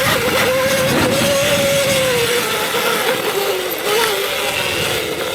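Electric dirt bike's motor whining steadily, then dropping in pitch a little past halfway as the throttle eases, over a constant rushing noise.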